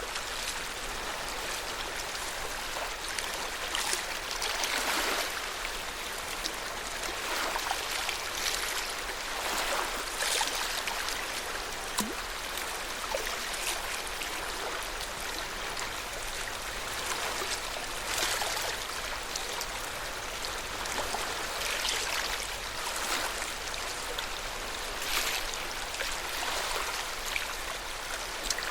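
Lake Yamanaka's water lapping at the shore, a steady wash with soft swells every few seconds.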